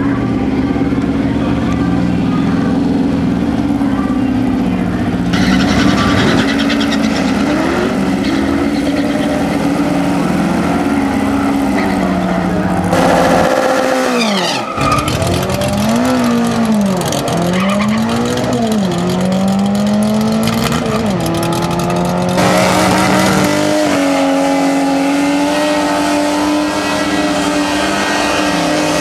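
Drag-race car engines: one running steadily at first, then an engine revved up and down again and again during a burnout with the tyres spinning, then another engine running steadily near the end.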